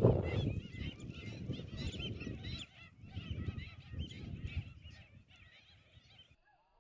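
A flock of whistling ducks calling, many short whistled notes overlapping, over a heavy low rumble of wind on the microphone. The sound cuts off suddenly near the end.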